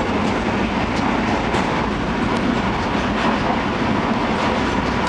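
Steady running noise of a passenger train heard from inside the carriage, with occasional faint clicks from the wheels on the track.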